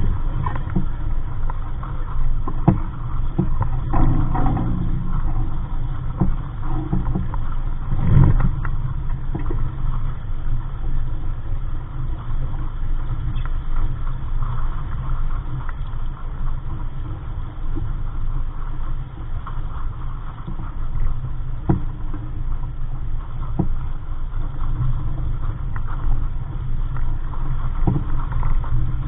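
Capri Coronado 15 sailboat under way: a steady low rush of wind and water moving along the hull, with occasional brief knocks and slaps.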